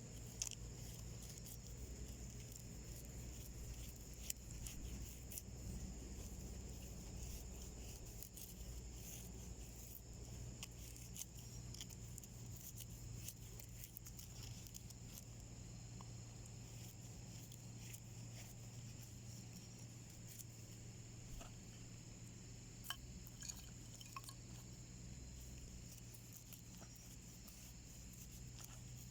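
Wood fire burning in a small homemade wood stove, crackling faintly with scattered pops and ticks over a steady low hum.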